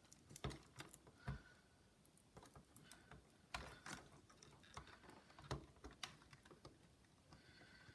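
Faint, irregular clicks and taps of small plastic and metal laptop parts being handled during a Dell Inspiron 1545 disassembly, with several sharper clicks spread unevenly through the quiet.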